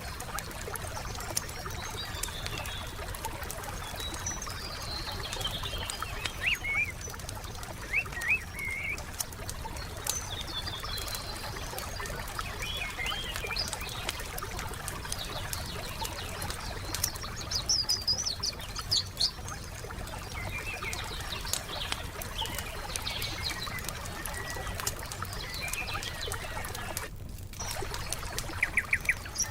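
Wood campfire crackling with frequent sharp pops and snaps, while songbirds chirp and twitter over it in short calls. Near the end, the sound briefly drops out.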